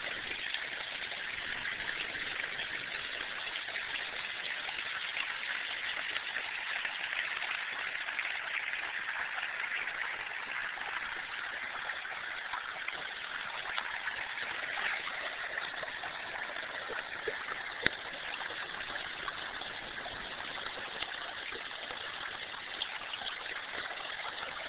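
Stream running: a steady rush of water, with one light click about eighteen seconds in.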